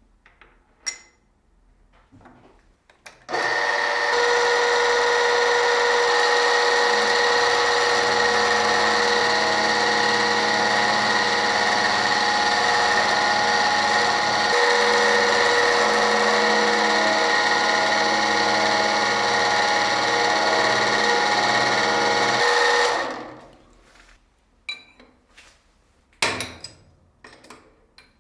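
A power tool's electric motor starts abruptly, runs at a steady pitch for about twenty seconds, then winds down. A few light knocks and clicks come before and after it.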